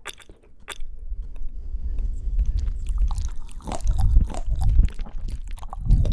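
Close-miked chewing of fruit: a couple of sharp, crisp clicks just after the start, then steady, wet, irregular chewing with heavy low thuds, loudest in the second half.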